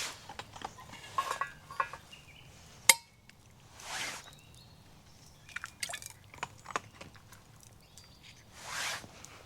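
Light clinks of utensils against camp cookware, a handful of small taps with one sharp, ringing clink about three seconds in, and soft swishing sounds in between.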